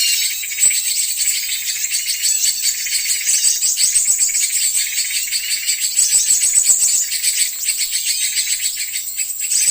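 Many small birds chattering and chirping without pause, a dense high-pitched twittering: a bird-lure (suara pikat) recording meant to draw wild birds in.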